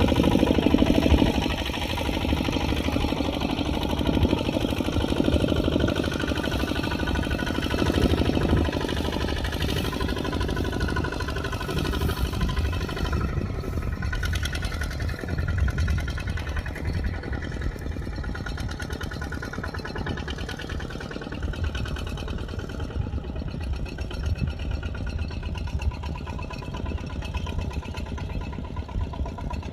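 Kubota RT140 single-cylinder diesel engine running steadily on a working tractor, a little louder in the first several seconds and easing off after.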